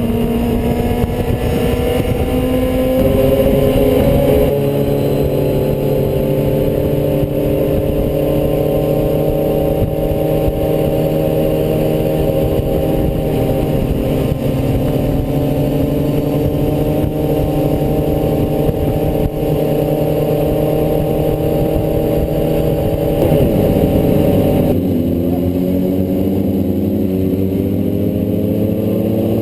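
Motorcycle engine running at a steady, slightly wavering speed. Near the end the revs drop and then climb again.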